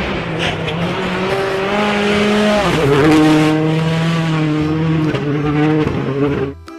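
Rally car engine at high revs as the car speeds past, its pitch dropping sharply about a third of the way in as it goes by, with a hiss of tyres and flung gravel.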